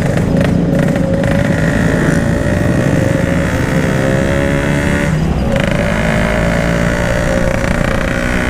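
Yamaha RX-King two-stroke single-cylinder motorcycle engine running under way through an aftermarket exhaust, its note steady. About four seconds in the pitch falls as the throttle is eased, with a brief break near five seconds, then it picks back up to a steady note.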